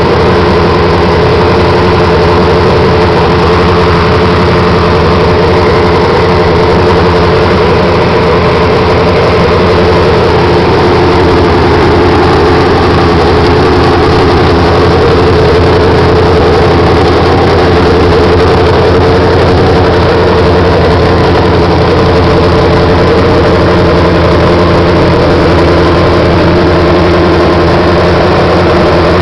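1982 Suzuki Katana 1100 race bike's air-cooled inline-four engine idling steadily, loud and close, with no revving.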